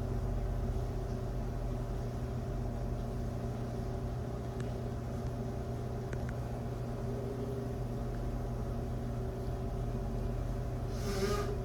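A steady low mechanical hum, with a short burst of hiss near the end.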